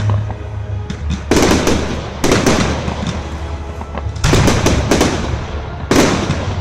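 Fireworks going off in four bursts of rapid crackling bangs, each cluster lasting under a second, over a steady low rumble.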